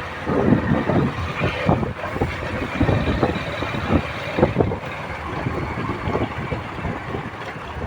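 Motorcycle running on the move, with wind buffeting the microphone in irregular gusts.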